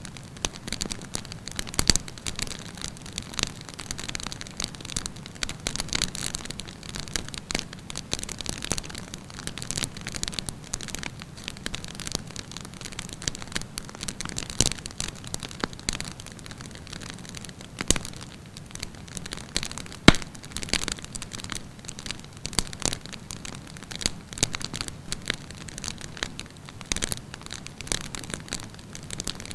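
Wood campfire burning with constant crackling over a low hiss, and sharp pops here and there, the loudest about two seconds in and around eighteen and twenty seconds in.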